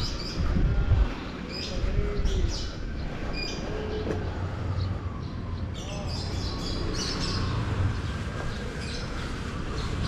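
Birds chirping, short high calls repeated every second or so, over a steady low rumble.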